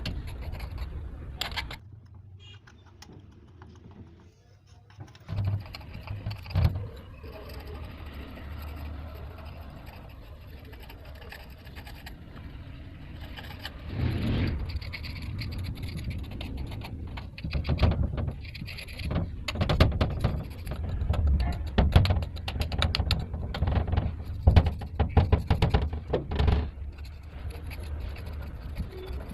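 Car engine parts being cleaned by hand with a brush: scraping and scrubbing, with many short knocks and clanks from about halfway through, over a steady low hum.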